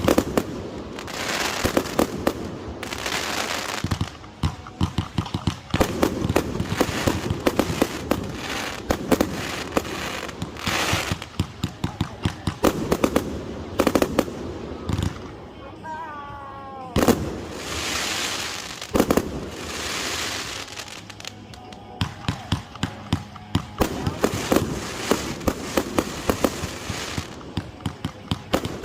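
Consumer multi-shot firework cakes firing: rapid volleys of sharp launch shots and bursting shells with crackle between them. Past the middle a whistle falls in pitch and ends in a loud bang.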